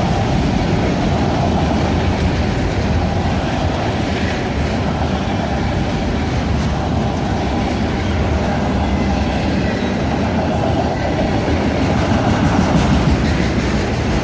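A train rolling past, a steady loud rumble of the rail cars going by.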